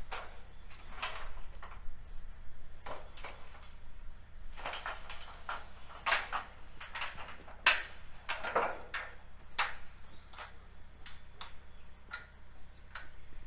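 Irregular rustling and knocking sounds, some sharp and some softer, over a faint steady low hum.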